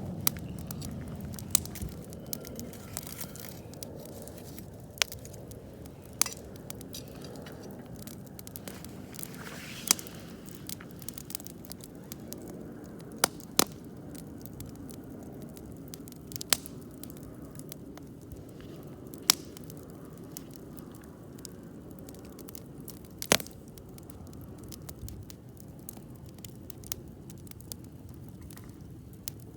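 Wood campfire burning: a low steady rush with sharp crackles and pops coming irregularly, every second or few.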